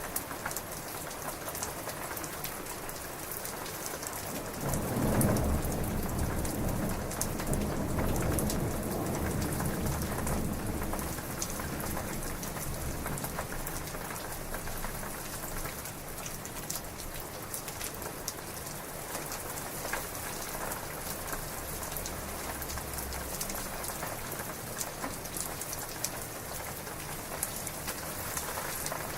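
Heavy rain falling steadily, with a roll of thunder about five seconds in that rumbles low and loud, then fades slowly over the next ten seconds or so.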